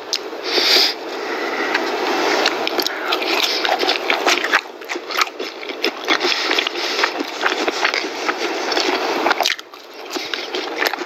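Crunching and chewing of crispy KFC fried chicken: a dense run of crackly bites, with a short lull near the end.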